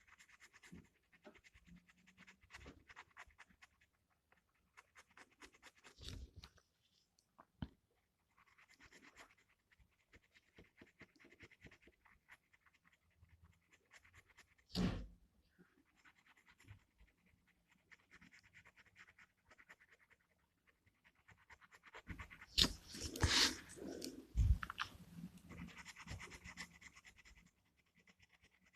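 A dog panting close by in quick, faint rhythmic breaths, broken by a single knock about halfway through and a louder burst of knocking and rustling near the end.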